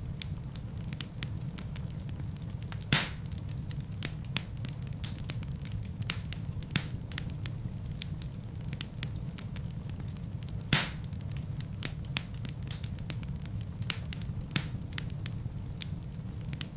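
Wood fire crackling in a fireplace: a steady low rumble of burning with frequent small crackles and two louder pops, one about three seconds in and one about eleven seconds in.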